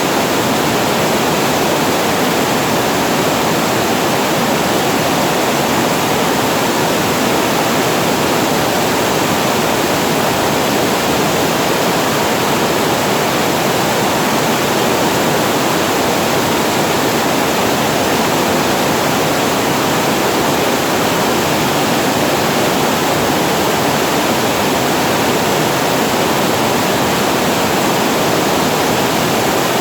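Water spilling over a reservoir weir and falling below it, a loud, steady, even rush that never changes or breaks.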